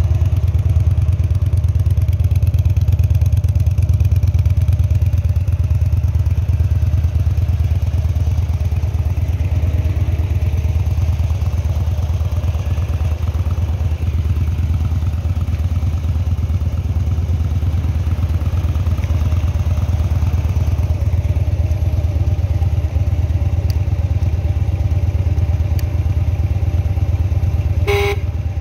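2013 Harley-Davidson Dyna Street Bob's air-cooled V-twin idling steadily at about 1,000 rpm, stationary on its stand. A short beep sounds near the end.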